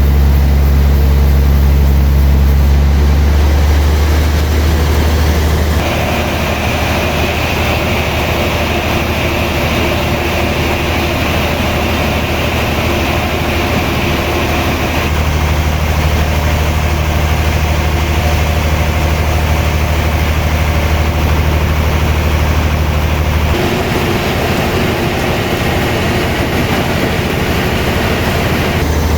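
Sawmill machinery running with a loud, steady drone, its pitch and tone changing abruptly several times.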